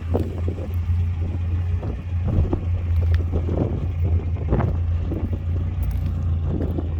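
A Mitsubishi Lancer's engine running steadily at low revs, a deep even hum with a rough, uneven edge.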